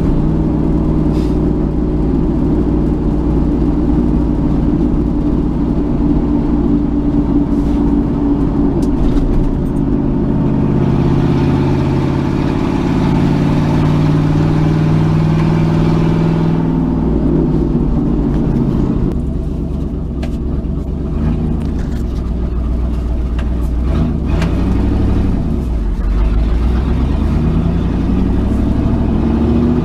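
Road vehicle engine and road noise heard from inside the cab while driving, the engine note shifting up and down with speed and gear changes.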